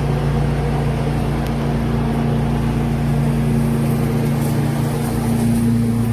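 The 9-horsepower engine of a truck-mounted leaf vacuum running steadily at constant speed, with a steady low hum.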